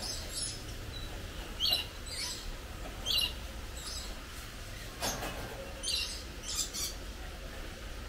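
Birds giving short, high-pitched chirps, spaced roughly a second apart.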